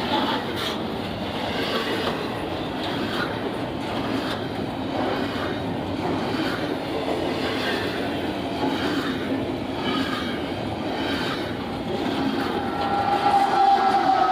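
Passing train cars rumbling, with a regular clickety-clack of wheels over rail joints about once a second. About twelve seconds in, a steady high squeal joins in and becomes the loudest sound.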